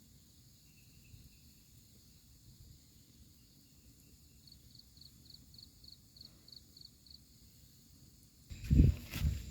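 Faint night insects with a steady high drone, and a chirping insect calling about three or four times a second for a couple of seconds midway. Near the end, loud thumps and rustling start suddenly and are the loudest sound.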